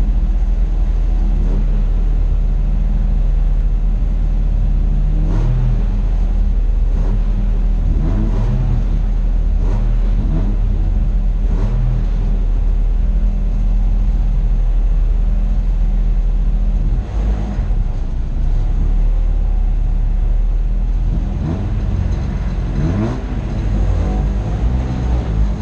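Folkrace car's engine idling, heard inside the stripped cabin, blipped several times in quick short revs that rise and fall back to idle.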